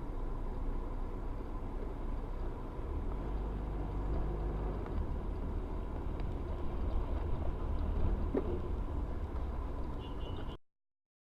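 Steady low rumble of a car driving, recorded by a dashcam, with a faint thin whine above it; it cuts off abruptly near the end.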